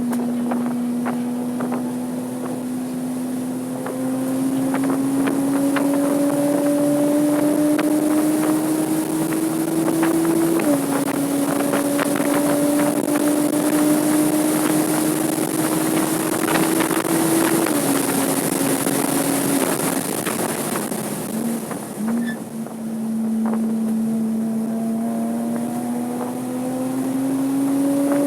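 Porsche 987.2 Cayman S's 3.4-litre flat-six engine pulling hard on track, its pitch climbing through long pulls and dropping sharply at gear changes about ten seconds in and again near eighteen seconds. About twenty seconds in it comes off the throttle, gives a couple of short blips, then pulls again near the end. Wind noise runs under it.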